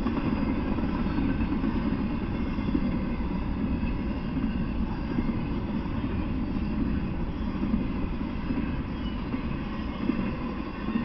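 Intermodal freight train rolling past, its double-stack container cars and trailer-carrying flatcars making a steady low rumble of wheels on rail.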